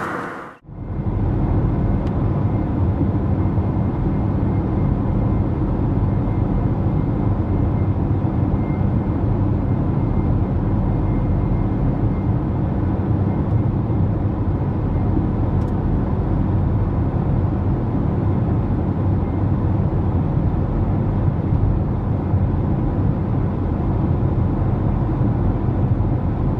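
Steady low rumbling noise with a faint constant hum, unchanging throughout and starting abruptly just after a cut.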